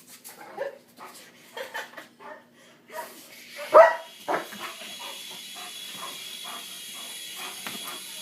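German Shepherd giving short yelps and whines, with one loud bark about four seconds in. From about then a steady high whine runs on, from the toy RC helicopter's electric motor.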